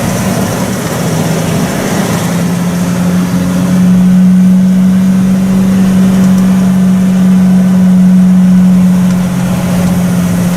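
Logging truck engine running steadily as the truck drives along, with a strong steady hum. It grows louder about four seconds in and eases a little near the end.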